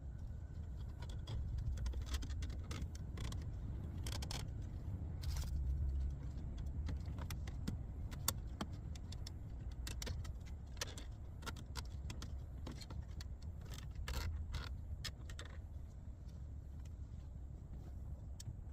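Irregular small clicks, taps and plastic rattles as the flexible guide of an in-dash LED light strip is pressed into the gaps between a car's interior trim panels, over a steady low rumble.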